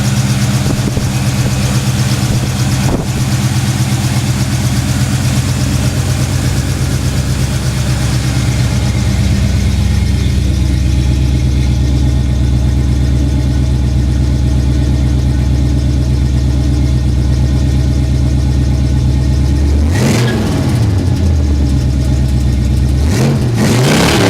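1978 Ford Ranchero GT's 351M V8 idling steadily, its note settling deeper about nine seconds in. Near the end the throttle is blipped, the revs rising and falling, once about 20 seconds in and again just before the end.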